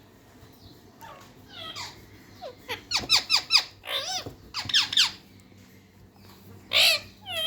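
Pet parrot calling: a run of quick, squeaky falling notes starting about a second and a half in, a short pause, then more calls near the end.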